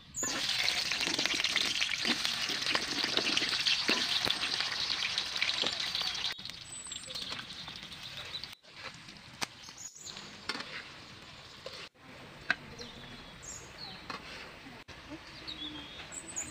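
Sweet potato (camote) strips frying in hot oil in a wok: a loud sizzle as the raw pieces go in, dropping to a quieter sizzle about six seconds in. Birds chirp now and then.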